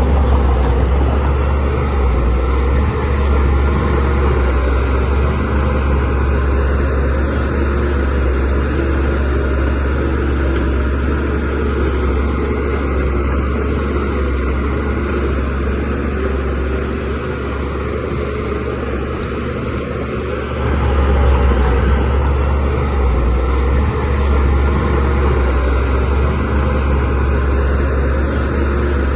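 Shantui DH17C3 Pro bulldozer's diesel engine running steadily with a deep low rumble while the machine works. It grows louder about two-thirds of the way through after a slight dip.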